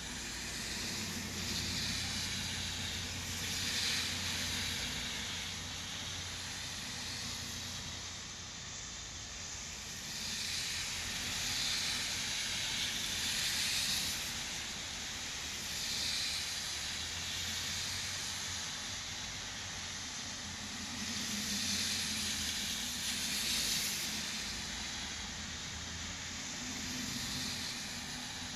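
Steady hiss of falling rain, swelling louder and easing off every several seconds.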